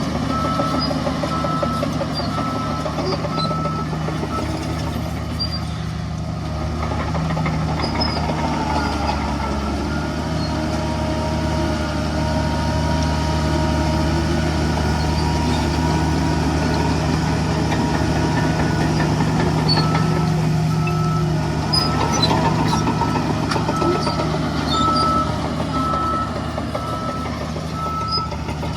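Heavy diesel earthmoving machinery running steadily with a low drone, while a reversing alarm beeps at an even pace at the start and again for several seconds near the end.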